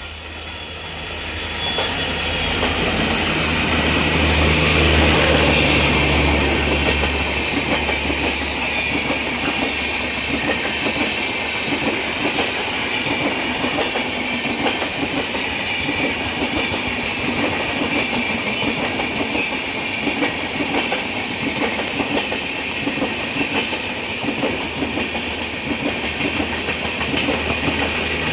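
EMD WDP4-series diesel locomotive passing at speed, its engine drone building to a peak about five seconds in. It is followed by a long rake of passenger coaches rolling by with steady wheel noise and the clickety-clack of wheels over rail joints.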